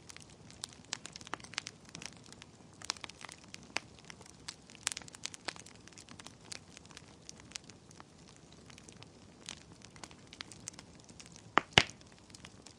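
Wood fire in a fireplace crackling, with irregular sharp pops and snaps and a pair of loud pops near the end.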